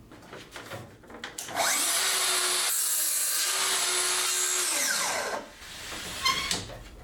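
Festool HKC 55 cordless track saw spinning up, cutting straight through a board for about three seconds, then winding down with a falling whine. A sharp knock comes near the end.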